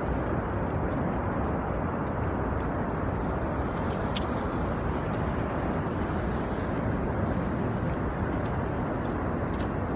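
Niagara Falls: the steady rush of the falling water, an even, unbroken deep noise. A brief sharp tick sounds about four seconds in.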